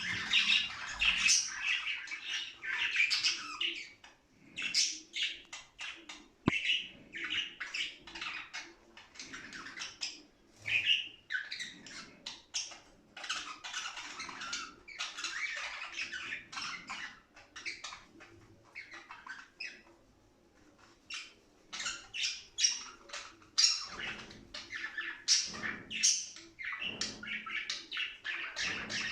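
Budgerigars chattering and warbling, a busy run of rapid chirps mixed with sharp squawks that thins out briefly about two-thirds of the way through.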